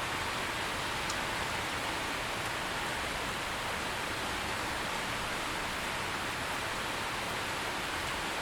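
Steady rain falling, an even hiss with no changes in level, and a faint single drop tick about a second in.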